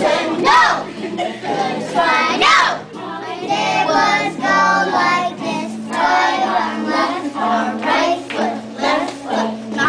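Children singing together in a group, over a steady musical accompaniment.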